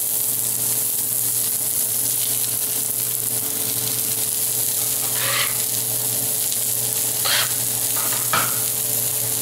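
Onions, garlic and sliced mushrooms sizzling in clarified butter in a hot steel pan, a steady frying hiss. Three short bursts, about five, seven and eight seconds in, as mushroom slices are dropped into the pan by hand.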